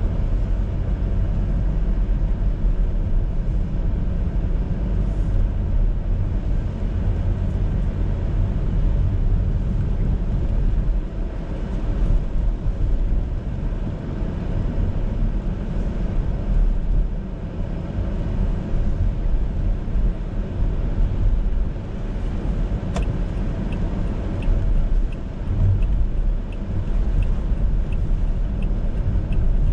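A car's steady road and engine rumble, heard from inside the cabin while driving. About 23 seconds in comes a click, then the turn-signal indicator ticks evenly, about one and a half times a second.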